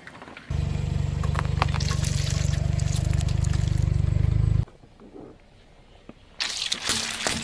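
Liquid splashing and trickling with crackles over a steady low car-engine hum that cuts off abruptly about two-thirds of the way through; near the end comes a short burst of crackling and splashing.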